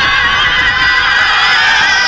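A crowd of cartoon elves screaming together as they flee, many high voices held in one long, loud scream.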